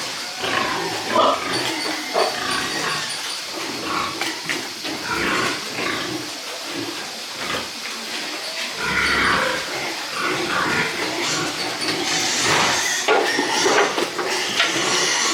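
Pigs grunting: short, irregular calls overlapping one another, busiest near the end.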